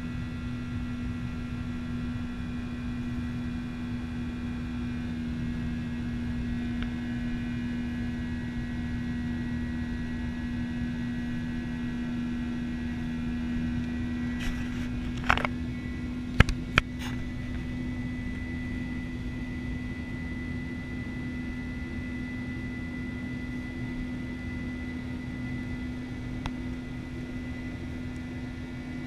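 Steady drone and rumble of a Boeing 737-900 airliner with a faint high whine above it, holding level with no build-up of power. A few sharp clicks about halfway through.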